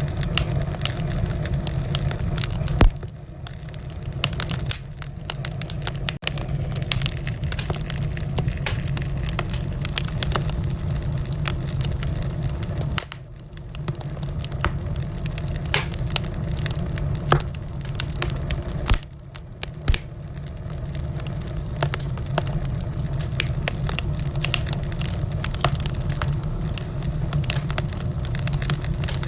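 Wood fire burning in a fireplace, crackling with many small sharp pops over a steady low rumble of the flames. A few louder snaps come about 3, 17 and 20 seconds in.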